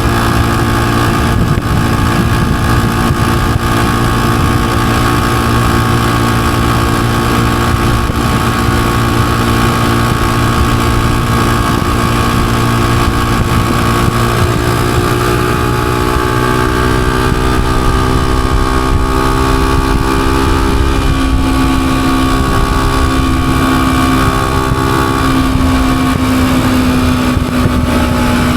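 Honda CG125's single-cylinder, air-cooled four-stroke engine running steadily while the motorcycle rides, heard from on the bike. The engine note holds steady at first, then drifts slowly up and down in pitch through the second half.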